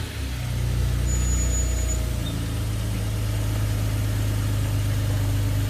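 BMW E46's engine idling steadily, its note shifting slightly about two seconds in.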